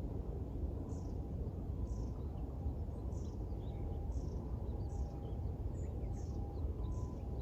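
Small birds chirping, with short high notes about once a second, over a steady low outdoor rumble of distant city noise.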